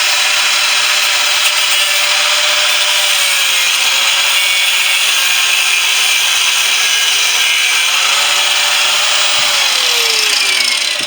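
Power tool cutting through the steel shell of a refrigerator compressor, a steady loud grinding hiss over the tool's motor whine; the whine dips briefly under load about four seconds in and falls in pitch near the end as the tool slows.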